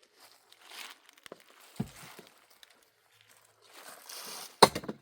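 Rustling and handling noises, with a dull thump about two seconds in and a sharp knock near the end.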